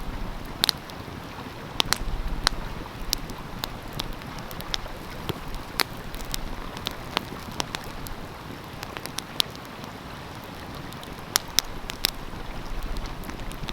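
Wood fire crackling with sharp, irregular pops over the steady rush of a flowing stream.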